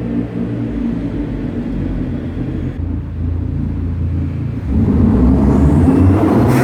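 Hyundai Genesis Coupe 2.0T's turbocharged four-cylinder engine and aftermarket exhaust running at a low, steady drone, growing louder and fuller about five seconds in as the engine is given more throttle.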